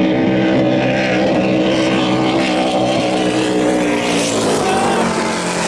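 High-performance racing powerboat engines running loud and steady as the boats close in, with the pitch sagging slightly a few seconds in as they pass.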